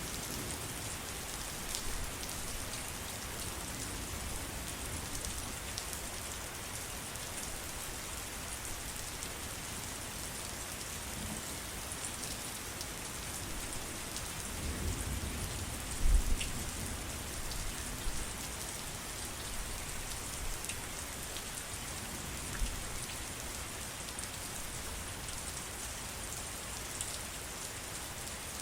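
Steady rain falling, an even hiss with individual drops ticking. About halfway through a brief low rumble rises and ends in a sharp thump, the loudest moment.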